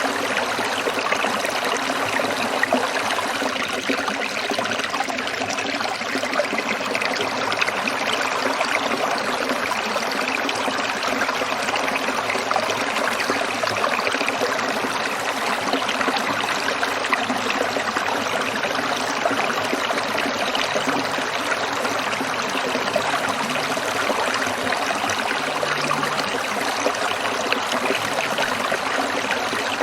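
Small stream trickling and babbling over stones, a steady, unbroken water sound.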